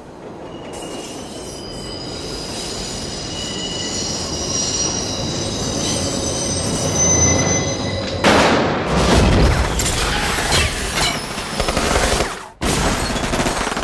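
Off-screen elevated train passing, its wheels screeching on the rails. The sound swells steadily with high squealing tones, then turns into a loud, harsh racket about eight seconds in. Near the end it breaks off abruptly and another loud sound follows.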